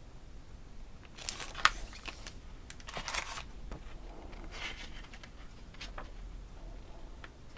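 Handling noises as packaging and craft items are moved: a few short rustles of packaging with several sharp clicks, the loudest click about one and a half seconds in.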